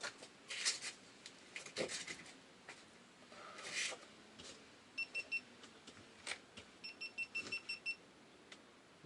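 Short electronic beeps at one high pitch: three about five seconds in, then a quicker run of about seven roughly two seconds later. Light handling clicks and rustles come before them.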